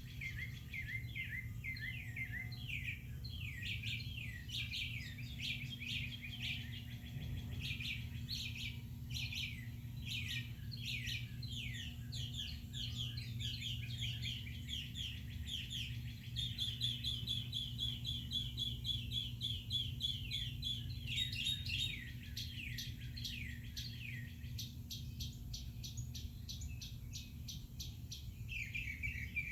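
Many small birds chirping and calling at once in rapid, overlapping short chirps, over a steady low rumble.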